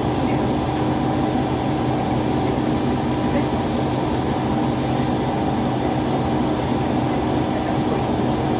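Diesel railcar's engine running steadily with an even hum, heard from the driver's cab.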